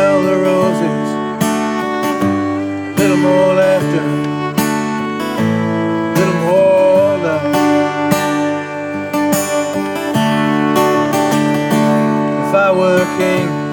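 Acoustic guitar strumming chords while a fiddle plays a wavering, sliding melody over them, with no singing.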